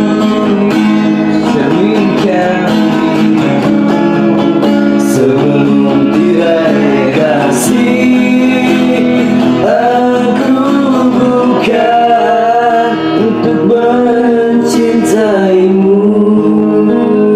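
Acoustic guitar playing with a voice singing a wavering, sliding melody over it.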